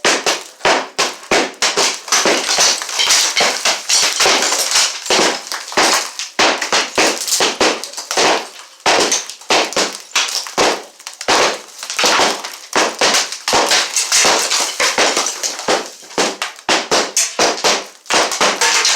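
A wall being broken out during demolition: a dense, irregular run of cracking impacts and crashing, falling debris, several a second without a pause.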